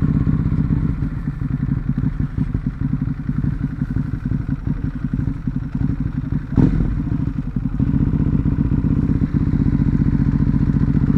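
Ducati Hypermotard's L-twin engine running as the bike is ridden, with a rapid, even pulse. There is one sharp thump a little past the middle, and the engine gets slightly louder and steadier after it.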